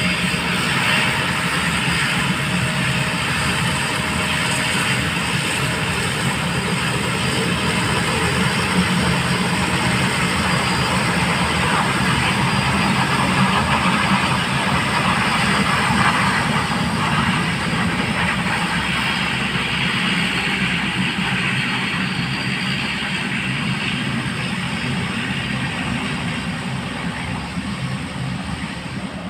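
Aircraft engines running loud and steady, easing off slightly near the end.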